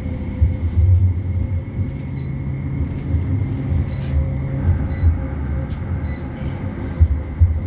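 Interior running noise of a West Midlands Metro CAF Urbos 3 tram: an uneven low rumble with a faint steady whine and occasional light clicks.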